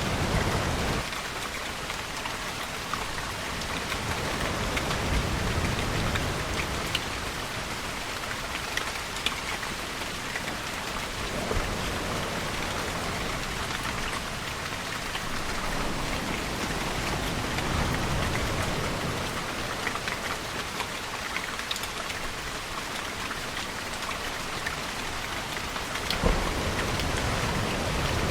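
Steady rain falling on a surface, with a few sharper drop hits. Under it, low rumbles swell and fade several times, one near the start and a sharp low knock near the end.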